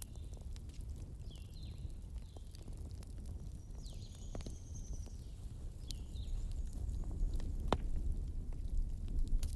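Wood fire burning in a fireplace: a steady low rumble with scattered crackles and sharp pops, one pop louder about three-quarters of the way through. A few short high whistles come and go.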